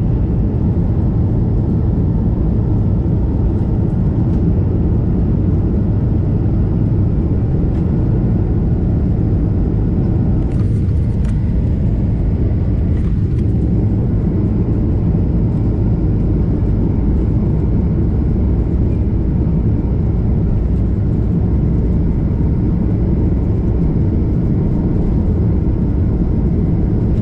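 Jet airliner at takeoff power, heard from inside the cabin: a loud, steady, deep rumble of engines and airflow.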